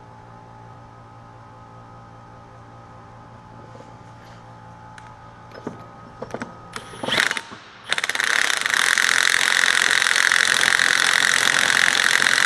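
A few light metal clicks and knocks, then a power wrench runs steadily for about five seconds on the Dana 44 pinion nut, taking the slop out of the pinion.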